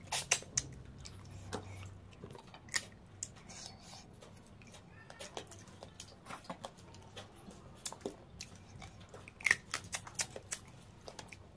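Close-miked eating of crab curry and rice by hand: wet chewing with scattered sharp clicks and crunches from crab shell. There is a cluster of them about half a second in and another near the end.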